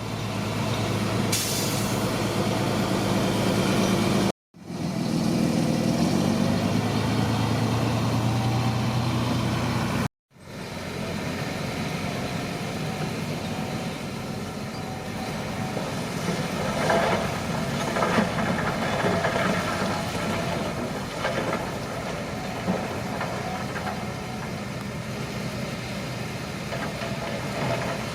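Shantui crawler bulldozer's diesel engine running steadily, broken twice by a brief silence, with a few knocks in the second half.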